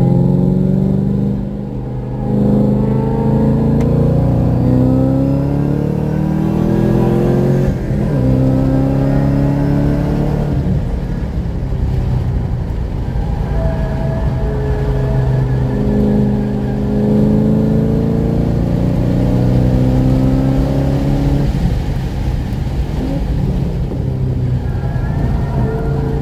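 Forced-induction car engine heard from inside the cabin under hard acceleration. Its pitch climbs repeatedly and drops back several times at gear changes and lifts for corners.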